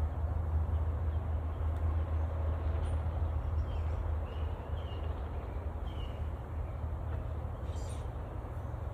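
Honeybees buzzing around an opened package and hive over a steady low rumble, with a small bird chirping briefly several times.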